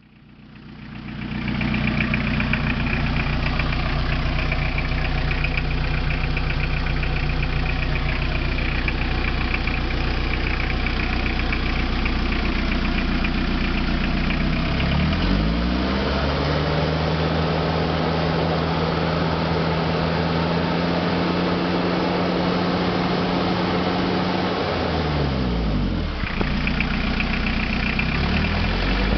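Toyota 2C 2.0-litre four-cylinder diesel engine running with a steady diesel clatter at idle, revved up about halfway through and held at higher speed for about ten seconds, then dropping back to idle near the end.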